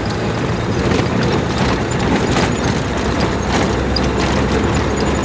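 Road noise from vehicles in traffic: a steady low engine hum and tyre noise, with scattered light clicks and rattles.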